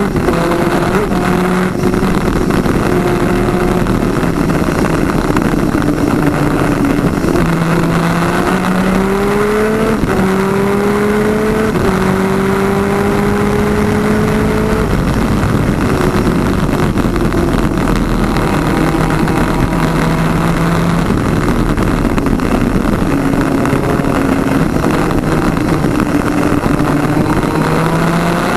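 Twin 250cc two-stroke engine of a superkart at racing speed, heard onboard: the pitch climbs in several steps with short drops between, as it shifts up through the gears, then holds steadier. A dense rush of wind and road noise runs under it.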